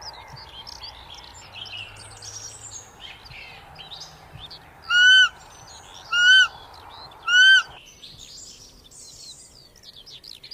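Roe deer calling three times, a little over a second apart: short, high, clear calls that rise and fall slightly, over faint birdsong.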